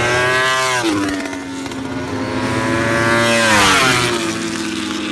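Racing motorcycles at high revs going past, the engine pitch dropping sharply about a second in and again near four seconds as each bike passes.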